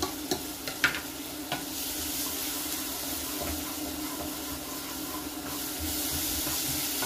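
Red onions frying in oil and butter in a pan, sizzling after a splash of soy sauce, with a wooden spoon stirring them. A few light knocks come in the first second and a half, and the sizzle grows louder from about two seconds in over a steady low hum.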